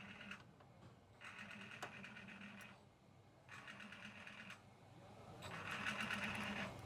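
Three bursts of a rapid mechanical buzzing rattle, each about a second long, over a faint steady low hum.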